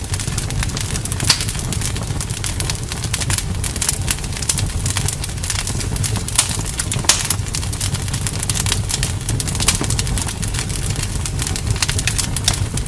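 Campfire crackling, with many irregular sharp pops and snaps over a steady low rumble.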